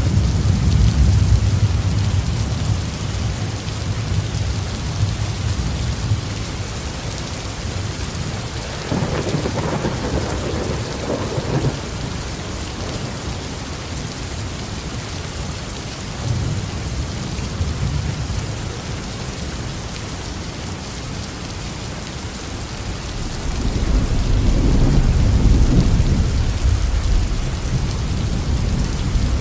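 Steady heavy rain falling on a roof with rolling thunder: a deep rumble at the start fades out, a sharper crack of thunder comes about nine seconds in, and another long low rumble builds up and rolls on near the end.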